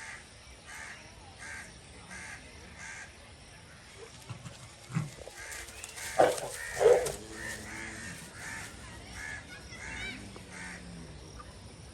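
Crows cawing over and over, about one and a half calls a second. Two much louder short calls cut in about six and seven seconds in.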